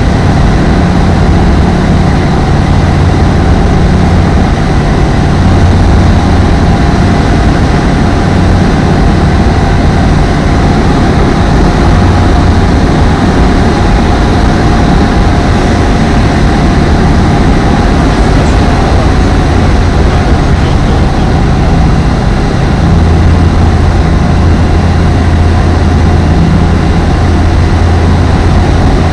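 Apollo Fox ultralight aircraft's engine and propeller running steadily, a loud continuous drone with a steady mid-pitched tone over it.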